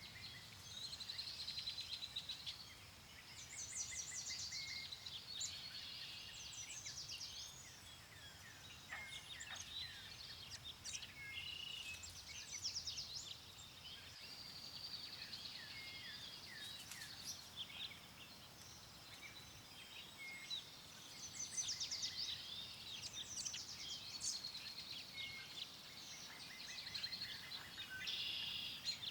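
Many songbirds chirping and trilling at once, a steady dawn-chorus-like mix of overlapping calls, over a faint low wind rumble.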